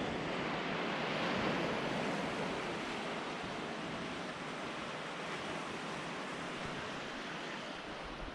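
Sea waves breaking along the shore, a steady wash of surf that eases slightly after the first couple of seconds.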